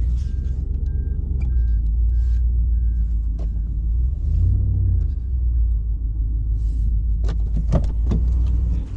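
A vehicle engine runs with a low, steady drone while a reversing alarm beeps about twice a second, the beeping stopping about three and a half seconds in. The engine revs briefly about halfway through, and a few sharp metal clanks come near the end.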